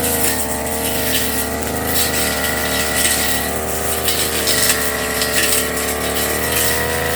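Firman FGB389FI brush cutter engine running steadily at high speed, its pitch wavering slightly as it works, with a hiss of grass being slashed.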